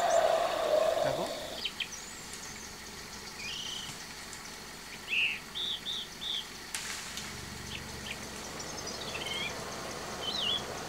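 Forest birds calling: short high chirps and whistled notes scattered through, with four in a quick row near the middle. At the start a louder drawn-out call lasts about a second and a half, then stops.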